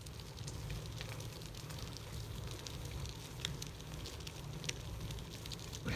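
Riding noise from a moving gravel bike: a steady low rumble of wind on the microphone, with scattered small crackles and ticks from the tyres rolling over grit on the road.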